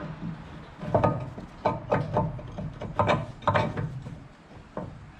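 A run of irregular metal knocks and clunks, about seven in all, as the tapered attachment pin of a Bobcat 753 skid-steer quick-attach is worked into its bore.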